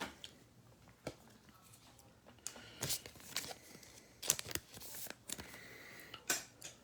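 Trading cards and their packaging being handled: faint, scattered clicks and short rustles, busier in the second half.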